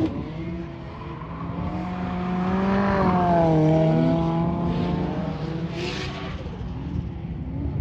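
A car engine running hard, its pitch climbing slightly and then dropping about three and a half seconds in, loudest around the middle and fading after, as a car goes past.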